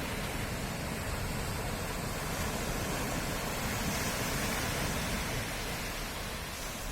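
Sea surf at night: waves washing against the shore in a steady rush of noise.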